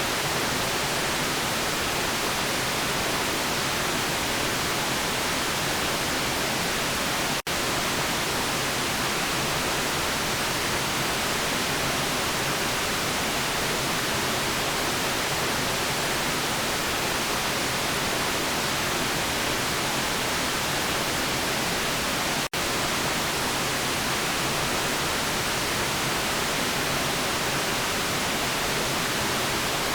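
Steady white noise hiss with no tone or rhythm in it, broken twice by a split-second dip in level.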